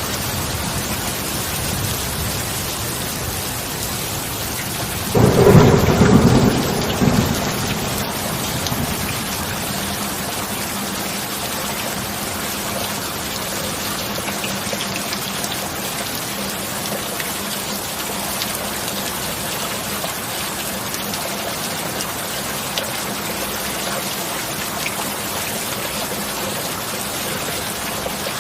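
Steady heavy rain with a single loud thunderclap about five seconds in that rumbles away over the next three seconds. A faint steady low tone from the binaural-beat bed runs underneath.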